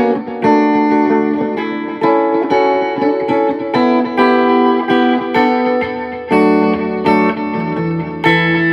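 Electric guitar played through a Visual Sound True Tone Dual Tap Delay pedal: a run of picked single notes, each ringing on into the next, with delay repeats trailing the notes.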